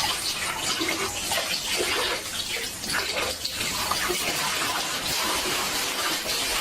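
Water splashing and sloshing continuously, with many irregular splashes.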